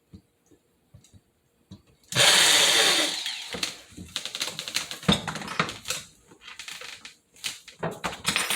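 Power drill runs in a short burst of about a second, boring a pilot hole for a blind bracket screw, its pitch falling as it slows. Irregular clicks and knocks of handling the drill and bracket follow.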